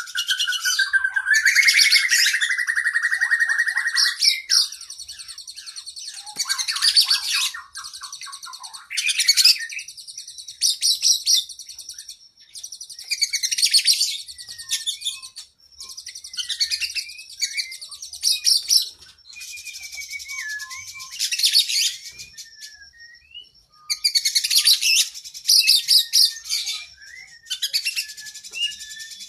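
Oriental magpie-robin (kacer) singing a long, varied song. It opens with a held whistle, then runs into rapid high trills and chattering phrases broken by short pauses.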